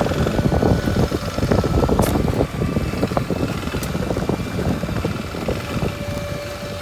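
Kawasaki Super Sherpa's single-cylinder four-stroke engine running as the motorcycle rides a forest road, with a few sharp knocks around two and four seconds in.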